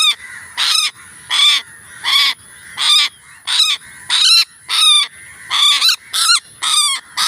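A bird giving loud, harsh calls over and over, about three every two seconds, each a short rasping screech.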